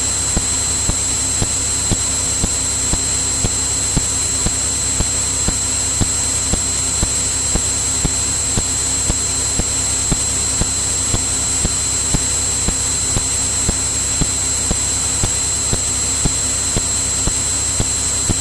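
Cirrus single-engine piston airplane in flight, its engine and propeller heard from the cockpit as a steady drone, with a constant high-pitched whine and faint ticks repeating about twice a second.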